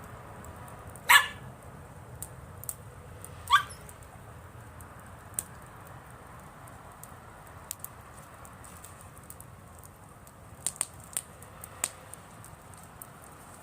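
Wood campfire crackling with scattered sharp pops. A dog barks twice, about a second in and again two seconds later, the second bark rising in pitch; the barks are the loudest sounds.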